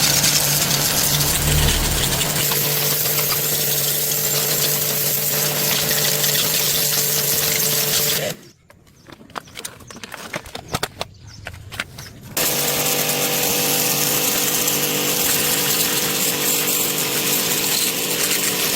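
An electric power tool runs steadily with a hissing, grinding noise. It stops for about four seconds, leaving a few light clicks and knocks of handling, then runs again.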